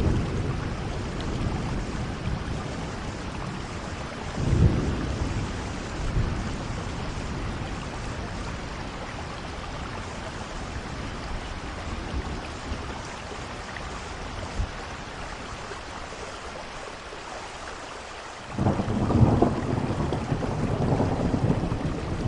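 Steady rainfall with low rumbling swells, a short one about four seconds in and a longer, louder one starting near the end.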